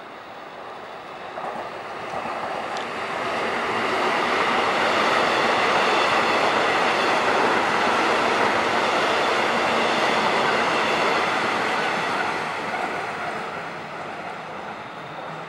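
Taiwan Railways EMU800 electric multiple unit passing on the track. Its wheel and running noise swells over the first few seconds, holds as a steady rush while the cars go by, then fades as the train moves away.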